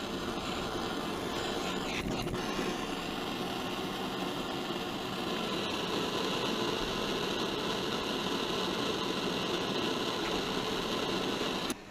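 Plumber's torch burning with a steady roaring hiss while heating a soldered copper joint to sweat it apart; the flame cuts off suddenly near the end.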